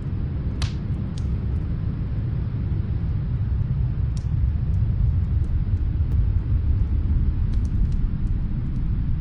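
Snowstorm wind rumbling steadily, with the sporadic snaps and pops of a fire crackling faintly from another room.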